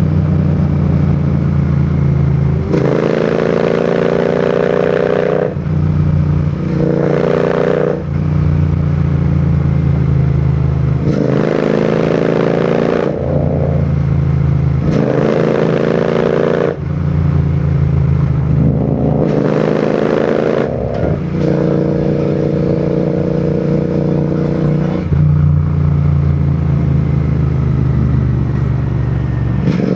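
Royal Enfield Continental GT 650's 648 cc parallel-twin engine and exhaust running on the move. The note changes every two or three seconds as the throttle opens and closes, with a rush of noise during the harder stretches.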